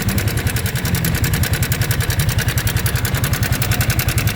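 Yamaha Sniper 155R's single-cylinder engine idling with a loud, rapid, even knocking. The owner traces the knock to a cam chain tensioner that has lost its spring and no longer holds the timing chain taut.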